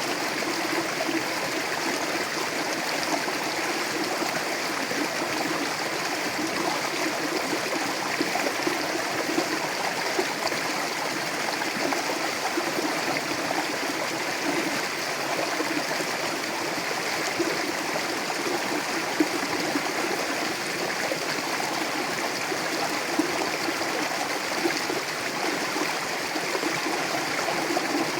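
Mountain river flowing over rocks: a steady rushing of water with small gurgles and splashes in it.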